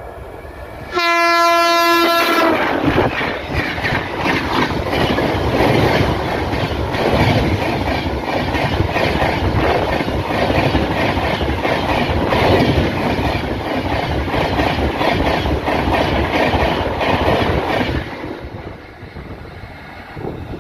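Express passenger train passing at speed: the locomotive sounds one horn blast about a second in, lasting about a second and a half, then the coaches run past with a loud rapid clatter of wheels over the rail joints that drops off near the end as the train recedes.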